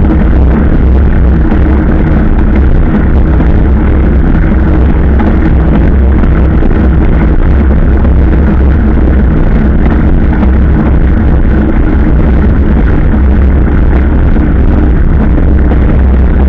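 Motorcycle engine running steadily at a constant speed, with a heavy low wind rumble on the microphone while riding.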